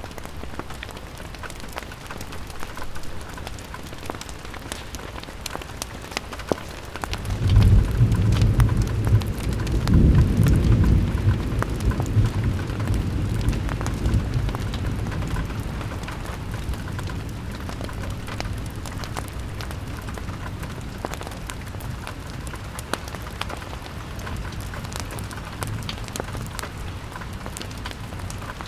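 Steady rain pattering on a window glass, full of small drop ticks. About seven seconds in, a deep rolling rumble of thunder swells up, is loudest for a few seconds, then slowly dies away under the rain.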